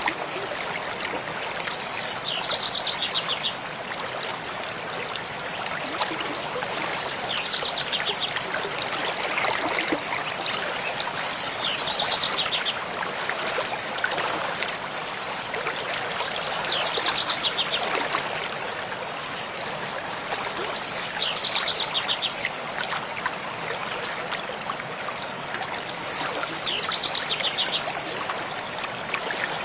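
Mountain stream flowing steadily over rocks, with a songbird repeating the same short song about every five seconds, six times, each a fast run of high notes.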